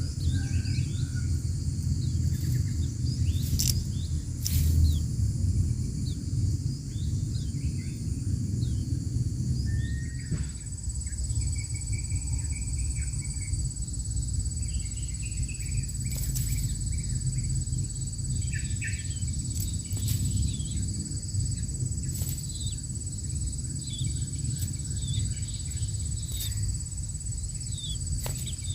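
Outdoor ambience: a steady high insect drone, with short bird chirps and trills scattered throughout and a low rumble underneath.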